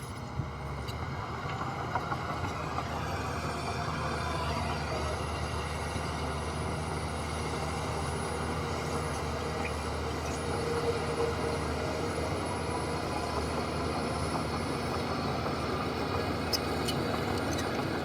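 Heavy diesel earthmoving machinery running steadily, its engine giving a continuous low rumble with no breaks.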